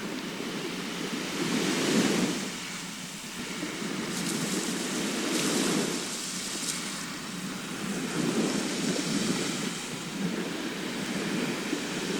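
Sea waves breaking and washing on a shore, the surf swelling and easing about every three seconds.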